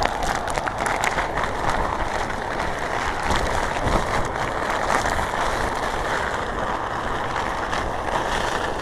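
Strong typhoon wind buffeting the microphone: a steady, dense rush with constant small gusts and crackles.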